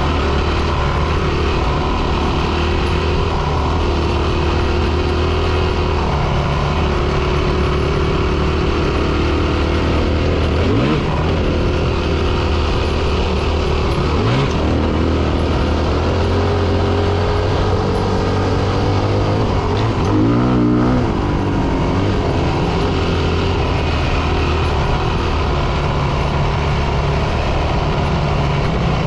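Four-stroke dirt bike engine running under way, with the revs jumping sharply about eleven and fourteen seconds in and a quick rev up and back down around twenty seconds in.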